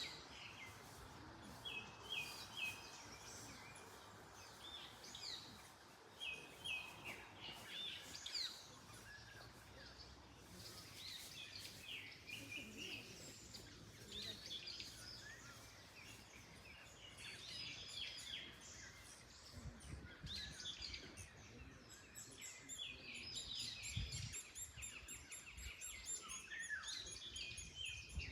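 Several small birds chirping and trilling on and off throughout, over a faint steady background of wind in the trees.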